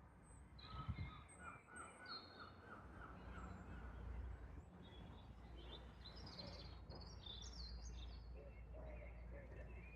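Faint evening birdsong: several birds chirping and singing, with a run of about eight quick repeated notes about a second in and more high chirps in the second half. A low steady rumble runs underneath.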